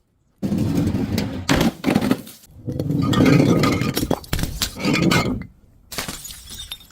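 Glass bottles breaking one after another: about five separate crashes of shattering glass, each lasting about a second, with short pauses between them.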